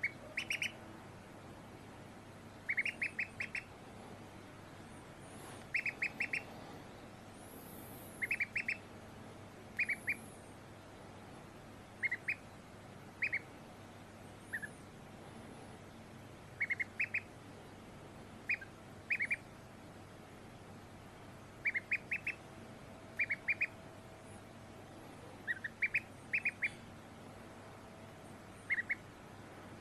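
Duckling peeping: short high-pitched peeps in quick runs of two to four, repeating every second or two over a faint steady hiss.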